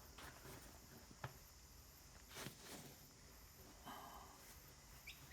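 Near silence with a few faint scattered clicks and rustles of hands working an inner tube out of a small trolley tyre.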